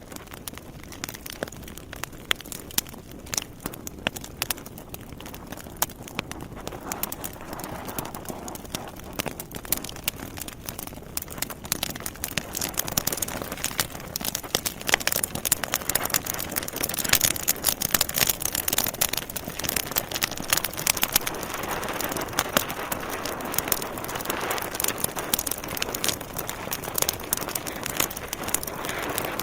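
Wood fire burning in a fireplace: a steady hiss with dense, irregular crackles and pops of the logs. It grows louder and busier over the first half.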